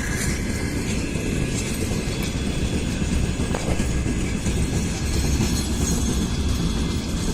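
Freight train rolling past, a steady low rumble of wheels on the rails with faint high tones above it.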